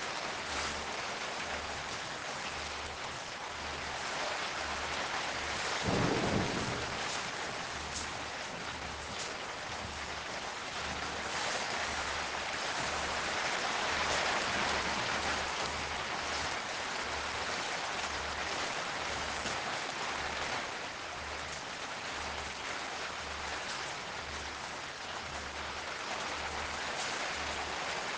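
Steady rain falling, heavier for a few seconds around the middle, with a short low rumble of thunder about six seconds in.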